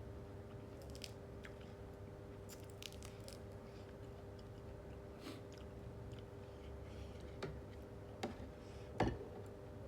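A person chewing food, with small wet clicks and crunches, over a steady low hum. Two sharper knocks come near the end, the second the loudest.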